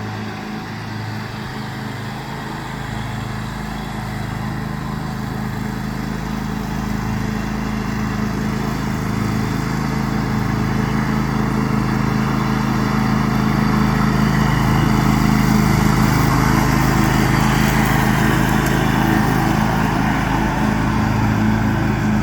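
John Deere X500 lawn tractor's V-twin engine running steadily under mowing load, growing louder over the first dozen seconds or so, then holding.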